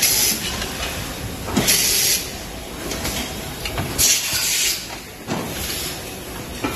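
Automatic engine assembly machinery running steadily, with short hisses of compressed air as pneumatic actuators fire: near the start, at about a second and a half, and a longer, louder one at about four seconds.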